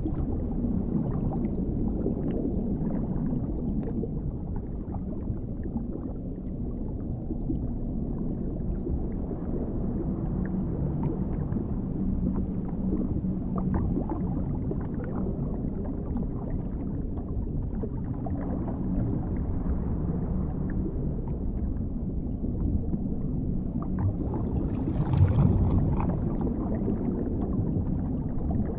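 Underwater ambience: a steady, muffled low rumble, with faint low tones drifting in and out and a brief louder swell near the end.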